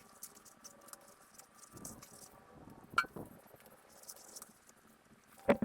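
Scattered small handling clicks and rustles, with one sharp click about three seconds in and a louder knock near the end.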